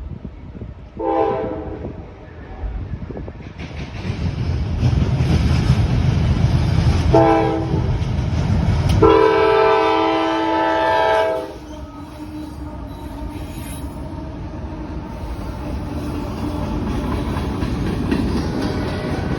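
Diesel locomotive horn of a freight train led by a GE CW44AH, sounded for a road crossing: a short blast, then two more, the last held about two and a half seconds. Under the horn the locomotives' rumble builds as they pass, and after the last blast it gives way to the steady rolling and clickety-clack of freight cars.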